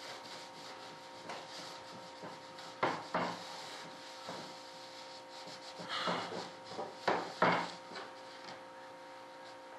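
Irregular hand rubbing and scraping strokes on a workpiece, a few louder strokes about three, six and seven seconds in, over a faint steady electrical hum.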